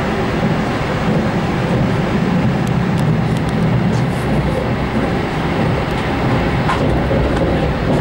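Steady running noise of a passenger train carriage in motion, heard from inside: the low rumble of wheels on the rails, with a few faint clicks.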